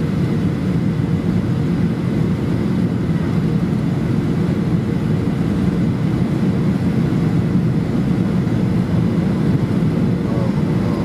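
Steady cabin noise inside a Boeing 737-800 airliner: its CFM56 turbofan engines and the airflow over the fuselage, an even low rumble.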